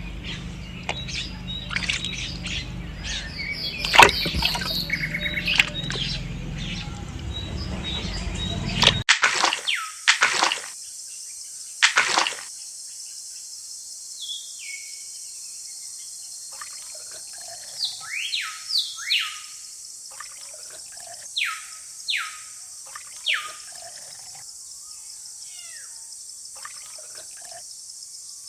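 A low steady hum with a noisy wash and scattered clicks, which cuts off abruptly about nine seconds in. After that, birds chirp in short falling whistles, repeated every second or two, over a steady high hiss.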